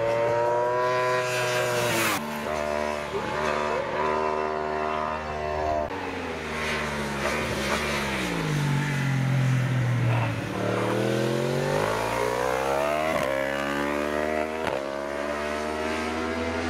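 Racing superbike engine at full throttle, revs climbing and cutting sharply at each upshift. The revs fall for a few seconds about six seconds in, then climb again through more quick gear changes.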